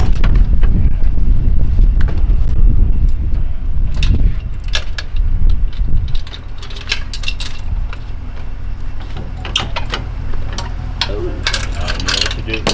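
Metal clinks, rattles and knocks over a vehicle engine running low. The rumble eases to a steadier hum about halfway through.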